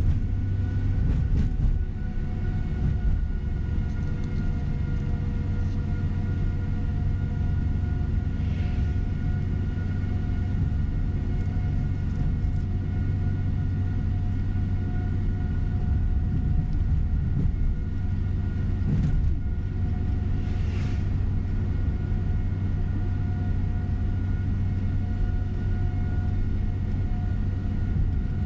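Tour coach bus on the move, heard from inside the cabin: a steady engine and road rumble with a faint constant whine over it.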